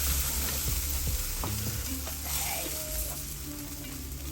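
Jerk chicken sizzling on a grill over a charcoal fire: a steady hiss with a few faint pops.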